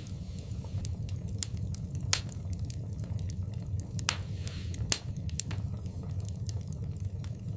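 Wood fire in a fireplace crackling: irregular sharp pops and snaps over a steady low rumble, with a few louder pops about two, four and five seconds in.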